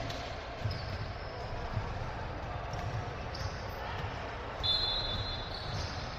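Basketball bouncing on a gym floor during a game, in irregular low thuds, with a few short high squeaks over a steady background of the gym.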